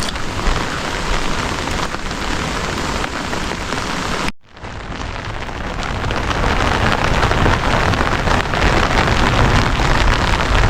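Loud, steady rushing noise of water, like heavy rain. It cuts out abruptly for a moment about four seconds in, then carries on.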